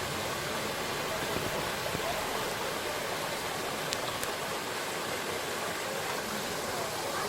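Mountain valley stream running, a steady sound of flowing water, with two faint ticks about four seconds in.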